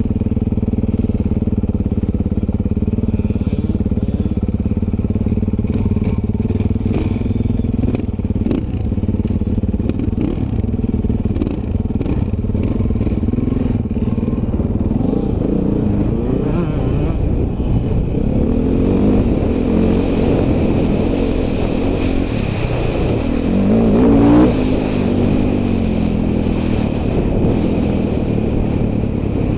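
Dirt bike engine running continuously, held fairly steady at first, then revving up and down repeatedly in the second half, with scattered knocks and clatter and a loud burst of revs about 24 seconds in.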